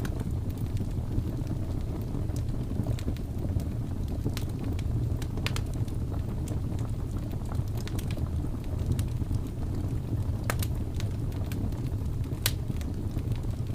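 Wood fire crackling in a fireplace, with irregular sharp pops and snaps, two of them louder near the end, over a steady low rumble.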